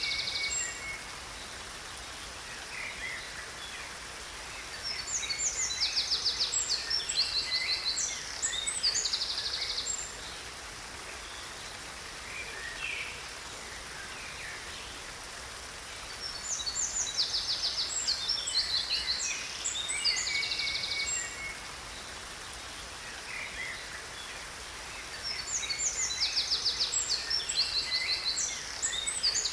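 Songbirds singing in bouts of rapid high trills and chirps, the same phrase returning about every ten seconds. Underneath is a steady rush of falling water from a waterfall.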